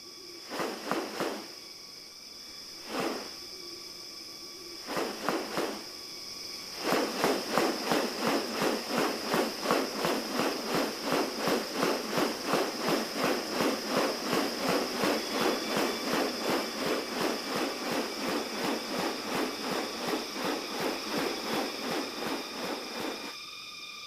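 Rainforest ambience with a steady high insect drone. A few short calls come in the first six seconds, then a long run of fast, even pulses, about three a second, starts around seven seconds in and stops shortly before the end.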